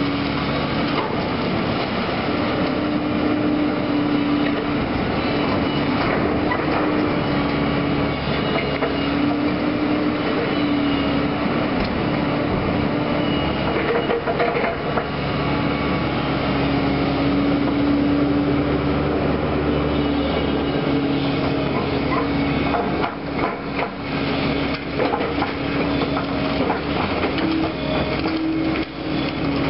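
Caterpillar heavy equipment's diesel engine running steadily under working load, with repeated clanks, knocks and scraping of debris being moved. The knocking is thickest in the last few seconds.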